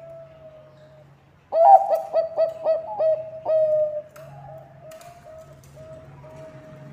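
Zebra dove (Bangkok perkutut) singing. About a second and a half in it starts a sudden loud run of quick staccato coos, about three a second. From about four seconds in the song goes on as softer repeated coos.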